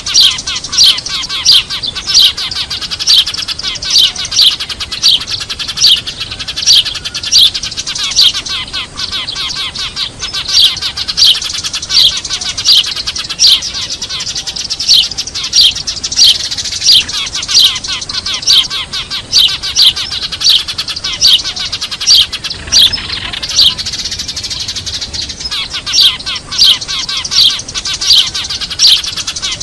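A flock of Eurasian tree sparrows chattering noisily. Loud, sharp chirps repeat about one and a half times a second over a dense bed of twittering, and pause briefly past the middle. This is a sparrow lure call used to draw wild birds in.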